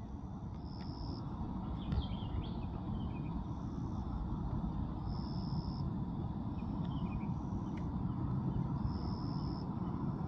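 Early-morning woodland ambience: a steady low rumble underneath, with a bird repeating a short, high, thin note every couple of seconds and a few brief chirps. No turkey gobbles.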